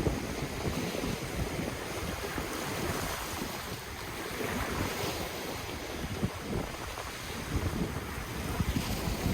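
Ocean waves washing on the shore, with wind buffeting the microphone and gusting in the low end.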